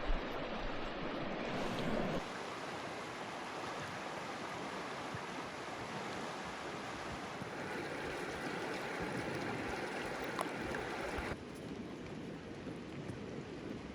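Steady rush of flowing river water. The sound changes abruptly about two seconds in and drops in level near the end.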